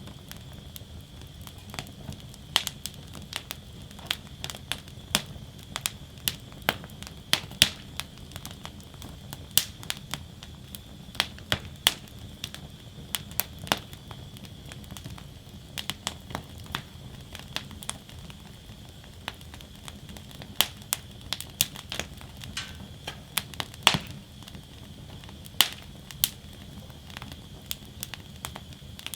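Wood fire burning in a metal fire basket, crackling with irregular sharp pops of varying loudness, several a second at times, over a steady low rumble and faint hiss of the flames.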